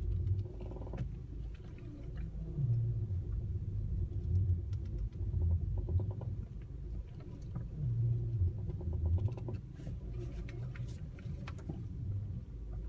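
Honda Civic 5D steering creaking as the wheel is turned to full lock, heard as several bouts of rapid creaky clicking over the low rumble of the running car. The uploader says it squeaks only at the extreme position of the wheel.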